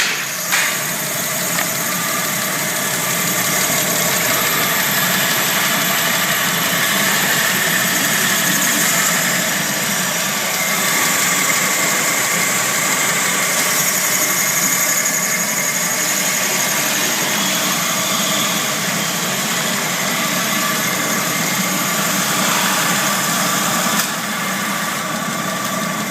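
Citroën Xsara Picasso 1.8-litre petrol four-cylinder engine idling steadily, with a sharp click or two right at the start and a slight drop in level near the end.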